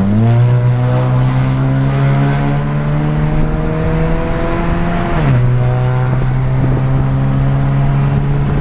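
Muffler-deleted Honda Civic four-cylinder engine under full-throttle acceleration: the exhaust note climbs steadily, drops as the automatic gearbox upshifts about five seconds in, then climbs again.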